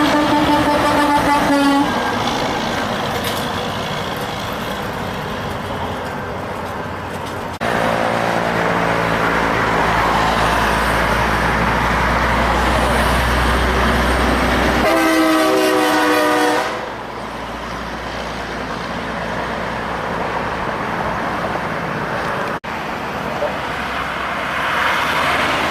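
Truck horn honking, ending about two seconds in, over road traffic; then a heavy truck's engine running close, and a second loud horn honk just past the middle, followed by passing traffic. The sound changes abruptly a few times.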